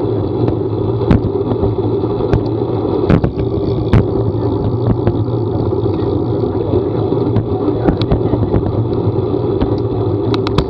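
Steady drone of a motor vehicle on the move, with scattered sharp taps and knocks every second or so.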